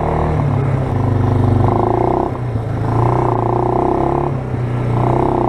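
Suzuki Eiger 400 ATV's single-cylinder four-stroke engine running a minute after a cold start, still warming up. Its level swells and dips a little, dropping briefly about two seconds in and again near four and a half seconds.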